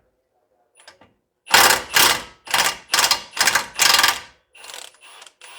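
Impact wrench with a 17 mm socket hammering at the lower ball joint's castle nut in six short bursts of about half a second each. Near the end come lighter, quieter whirring bursts as the nut spins loose.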